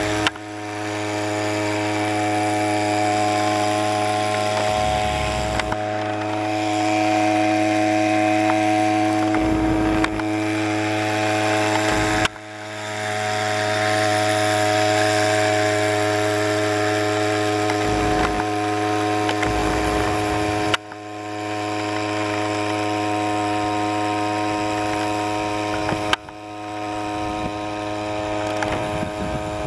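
Small boat engine running at a steady speed, a droning hum with a constant pitch. Its level drops suddenly three times and swells back.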